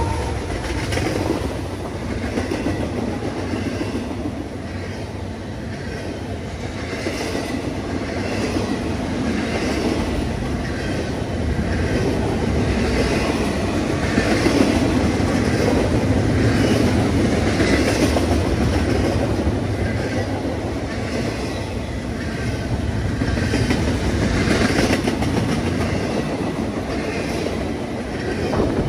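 Freight train passing close at speed: the trailing diesel locomotive, then double-stack container cars, with a steady rail rumble and a regular clatter of wheels over the rails about once a second.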